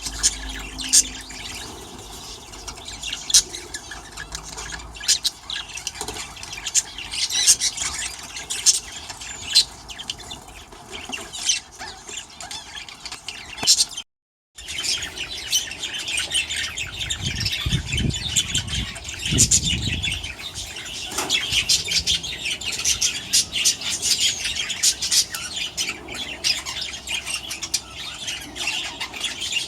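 A flock of budgerigars in an aviary chattering: many overlapping short chirps and squawks, with brief dropouts, one about 14 s in. A low rumble sounds for a few seconds past the middle.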